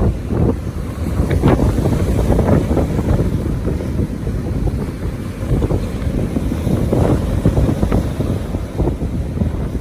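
Strong wind buffeting a hand-held iPhone's microphone: a heavy low rumble that surges in irregular gusts.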